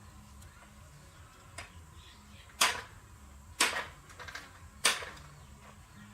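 Three sharp knocks about a second apart, each dying away quickly, with faint light clicks between them.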